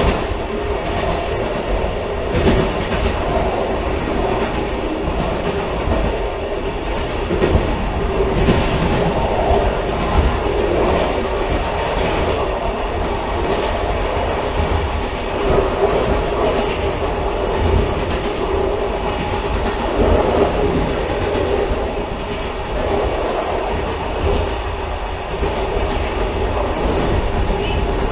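Railcar running along the track: a steady rumble and hum with irregular louder knocks of wheel clatter.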